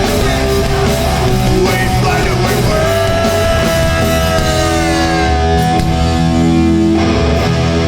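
Live hardcore punk band playing: distorted electric guitars, bass and drums at full volume. A held note slides down in pitch between about three and five seconds in.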